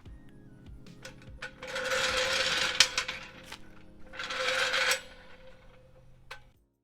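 A power tool running in two bursts of about a second each, over background music, with small metallic clicks around them.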